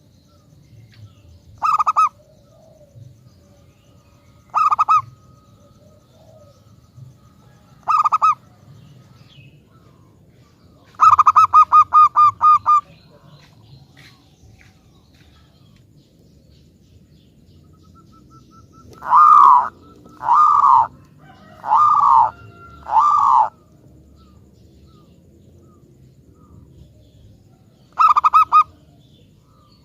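Zebra dove (perkutut) cooing: short, rapidly pulsed coos repeated every few seconds, a longer trilled run about eleven seconds in, and four drawn-out coos around twenty seconds in, followed by one more short coo near the end.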